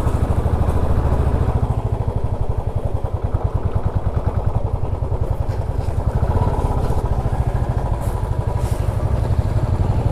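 Motorcycle engine running steadily under way, with a fast, even low pulsing from the exhaust.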